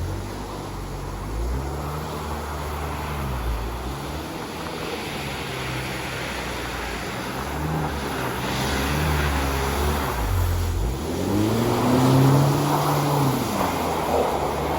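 Car engine revving several times, its pitch rising and falling, with the loudest and highest rev near the end.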